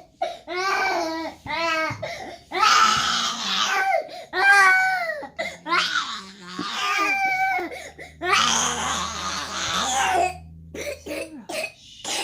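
One-year-old boy crying inconsolably, in a run of wavering wails a second or two long with short breaths between. His mother guesses the cause is teething pain or maybe growing pains.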